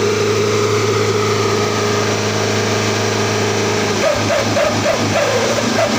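Truck engine running through an open 'dog' novelty exhaust with a steady droning note; about four seconds in the exhaust breaks into a string of short, wavering yelps and whines that sound like a dog.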